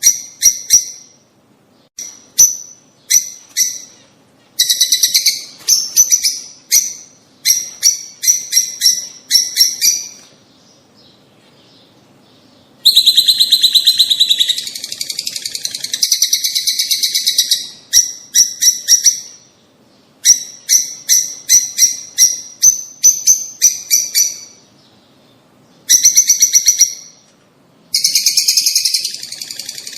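Small birds chirping in quick, high-pitched trains of chirps, several a second, coming in bursts of a few seconds with short pauses between, and one longer pause about a third of the way in.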